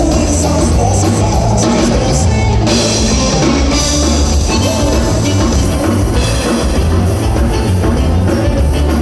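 A gaúcho band playing live, with drums and cymbals keeping a steady beat.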